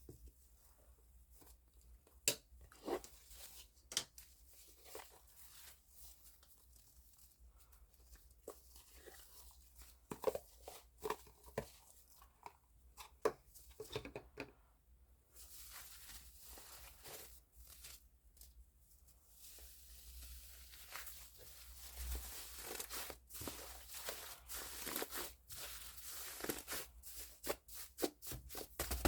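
Fluffy foam slime being pressed and squished by hand, giving faint scattered crackles and pops that grow into a denser, steadier crackling in the second half.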